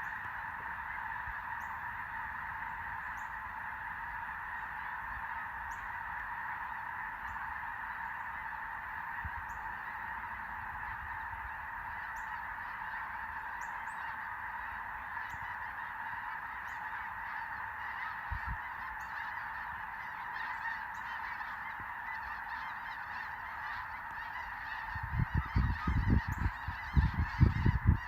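A large flock of geese honking overhead, their many calls merging into a steady, dense chorus. Near the end, loud bursts of low buffeting cut in over the calls.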